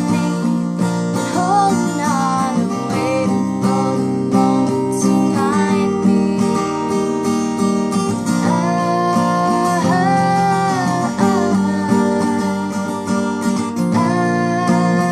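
Acoustic guitar strumming chords, with a voice singing a sustained melody over it.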